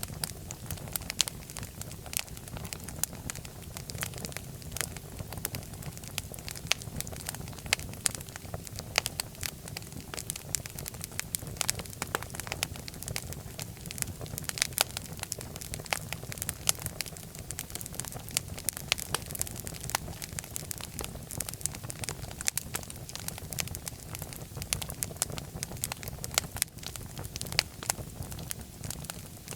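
Wood fire in a fireplace crackling, with many sharp pops and snaps at irregular moments over a steady low rumble of the flames.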